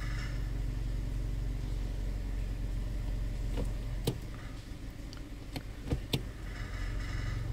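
Kia Cerato 1.6 engine running steadily, with several sharp knocks from under the hood in the second half. The knock comes from the automatic gearbox's drive plate (flexplate), cracked around a loosened bolt, although it sounds like an engine knock.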